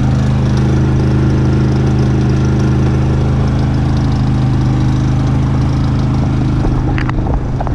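Predator 3500 inverter generator's single-cylinder engine running steadily and real quiet, a constant low even hum.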